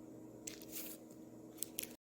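Short rustling scrapes and a few sharp clicks of objects being handled, over a steady low hum; the sound cuts off suddenly at the end.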